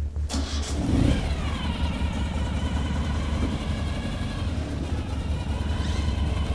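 Ural sidecar motorcycle's 750cc boxer twin engine running, its pitch rising slightly about a second in and then holding steady.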